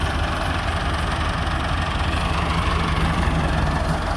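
Diesel farm tractor engine idling steadily with an even, low chugging beat.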